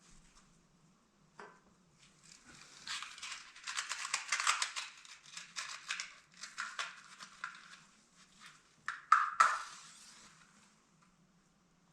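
Crinkling and tearing of wrapping being handled in bursts for several seconds, then two sharp scraping strokes close together near the end.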